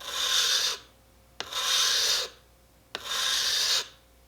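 Steel chisel bevel being honed on a wet water stone: three long strokes, each a gritty rasping scrape of about a second, starting with a light click as the edge meets the stone.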